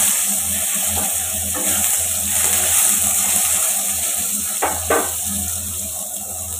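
Vegetable pieces sizzling as they fry in hot mustard oil in a kadai. A few light knocks against the pan come as the pieces are turned, two of them close together near five seconds in, and the sizzle dies down a little toward the end.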